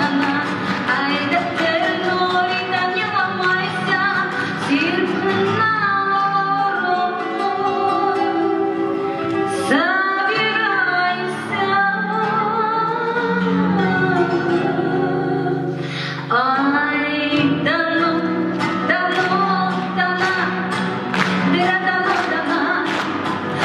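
A woman singing a Russian-Romani song over plucked guitar accompaniment, with sharp rhythmic strokes that come thicker near the end.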